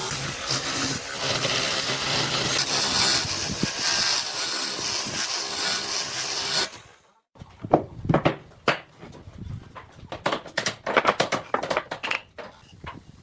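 A woodworking power tool running steadily, cutting off abruptly about seven seconds in, followed by a string of irregular knocks and taps of wood being handled.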